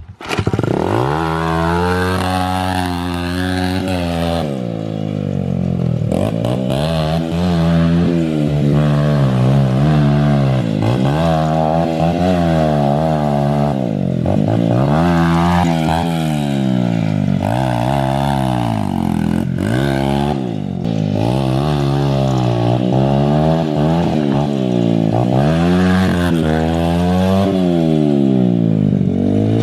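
Small dirt bike engine revving up and down over and over as it is ridden through mud, the pitch rising and falling every second or two.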